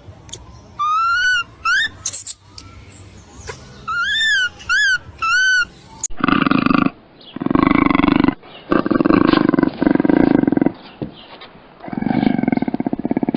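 A few short, high-pitched calls that rise and fall, then from about six seconds in a big cat roaring and growling in loud, rough stretches of about a second each, several in a row.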